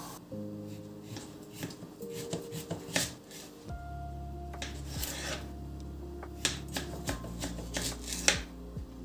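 Clicks, taps and rustles of small objects being handled, over quiet background music, with a sharper knock about three seconds in and another near the end.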